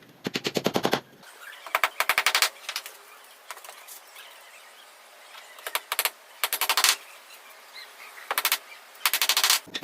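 A power tool rattling in about six short bursts of rapid, even clicks, each under a second long, as it works on the wooden cage frame.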